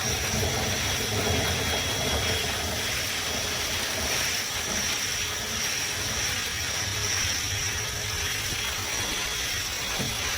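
Dryer vent cleaning equipment running steadily in a lint-clogged vent duct, a continuous whooshing, rattling mechanical noise with a faint high whine.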